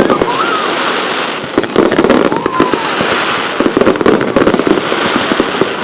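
Aerial fireworks display going off in rapid succession: a dense barrage of bangs and crackles, heaviest from about a second and a half in.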